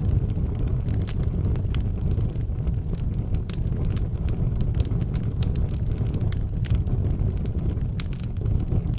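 Outdoor wood fire burning: a steady low rumble of flames with frequent sharp crackles and pops throughout.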